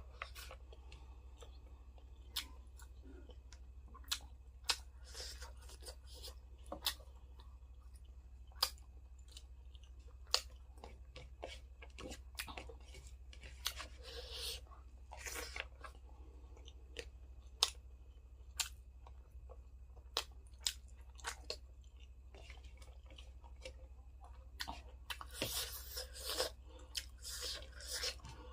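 Close-up chewing and crunching of food, with scattered short wet mouth clicks and smacks, busier near the end. A steady low hum runs underneath.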